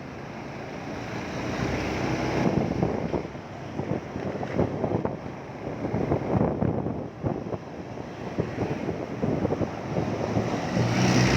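Wind rushing and buffeting against the microphone on a moving motorcycle, gusty and uneven, over the low drone of the engine. Near the end the engine's steady low tone comes up louder.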